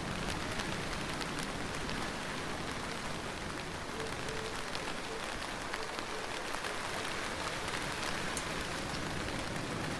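Steady heavy rain falling and pattering on a surface, a dense hiss scattered with the ticks of individual drops; no thunder.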